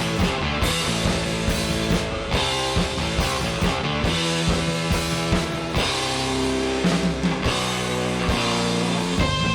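Rock band playing an instrumental passage: guitars over a steady drum kit beat.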